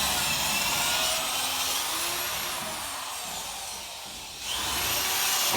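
Electric drill boring out rivets in car-body sheet metal, running steadily under load. It eases off about three seconds in, then picks up again near the end.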